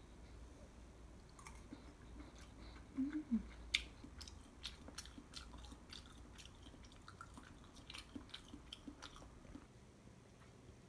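Quiet close-up chewing: a person eating, with soft wet mouth clicks and small crisp ticks scattered through it, a few louder bites about three to four seconds in.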